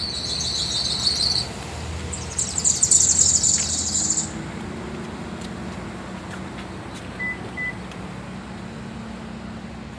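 Small birds giving high, rapid trilling chirps, first lower and then higher and brighter, which stop after about four seconds, over a low steady hum of vehicles. Two short beeps come about seven seconds in.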